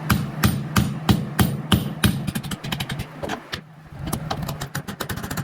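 Hammer blows struck in quick succession, about three a second, then a short lull and a run of faster, lighter taps near the end, over a steady low hum.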